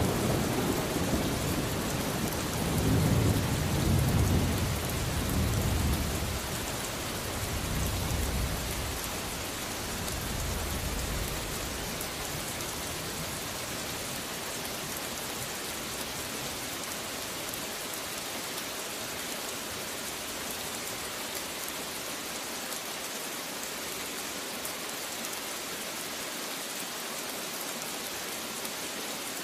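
Steady heavy rain with thunder rolling in several low swells that die away after about twelve seconds, leaving only the even hiss of the rain.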